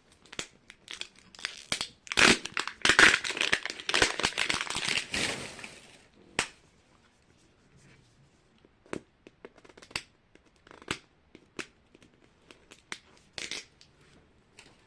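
Small plastic packets being torn open and crinkled by hand. There is a dense burst of crinkling and tearing from about two seconds in to about six, then scattered short crackles and clicks.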